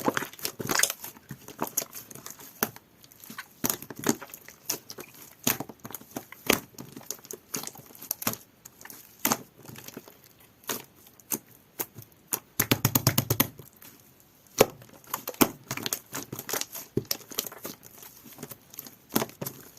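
Jelly-textured slime being pressed and stretched by hand, giving irregular sharp clicks and pops of trapped air, with a quick run of rapid popping about two-thirds of the way through.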